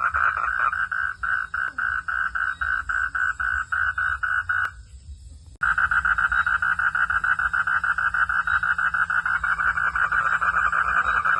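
Frogs calling at night in a loud, dense chorus of rapid pulsed calls, about five a second. The chorus breaks off for about a second just before the middle, then resumes suddenly.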